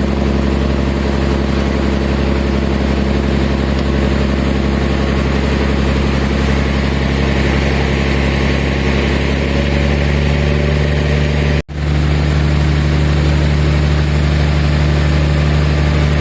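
Ferry's engine running steadily under way, a loud drone. The engine note shifts about ten seconds in, and the sound breaks off for an instant shortly after.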